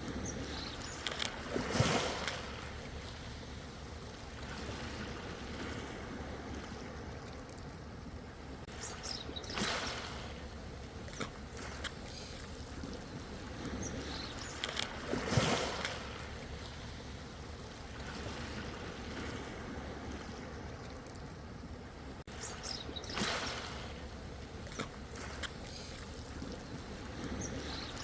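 Ocean waves breaking and washing in, four surges each with a splashy crash, about six to seven seconds apart, over a steady wash of water between them.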